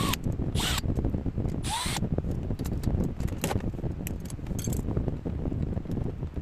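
Tool work: a few short scrapes, two with a brief squeak, in the first two seconds, then scattered clicks, over a steady low rumble.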